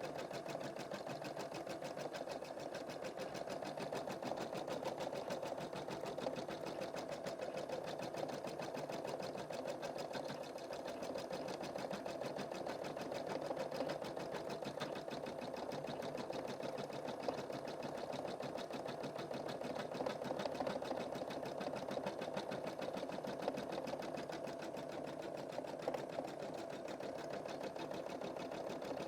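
Computerized embroidery machine stitching a design: a steady, rapid, even run of needle strokes.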